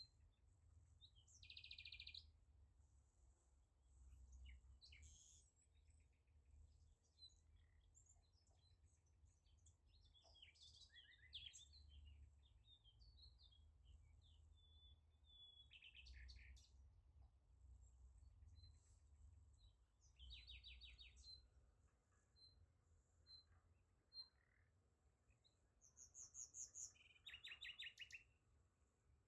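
Faint songbirds chirping and trilling, with short calls and quick rattling trills repeating throughout and a brief burst of rapid trills near the end, over a faint low rumble.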